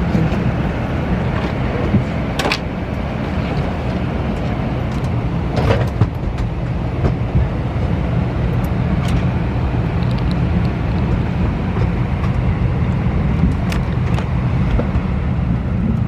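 Steady low rumble heard from inside a moving vehicle, with a few scattered clicks and knocks.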